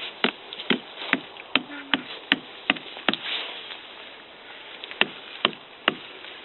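Wood being chopped with a blade to make pegs: sharp knocks about two to three a second, a pause, then three more blows near the end.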